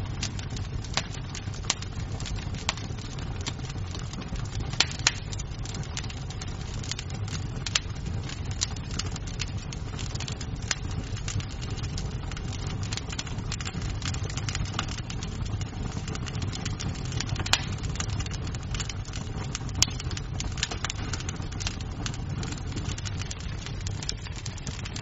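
Wood fire crackling in a fireplace: a steady low rumble with frequent sharp pops of burning wood, a few of them louder.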